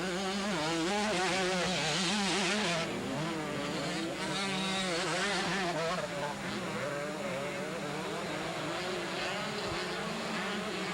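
Several two-stroke motocross bikes racing, their engine pitch rising and falling sharply as the riders rev on and off the throttle. The engines are loudest in the first three seconds or so.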